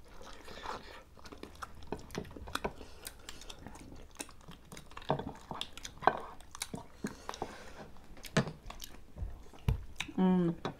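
People eating chicken by hand close to the microphone: chewing and sucking at the meat, with many short sharp mouth clicks and smacks. A brief voice sounds near the end.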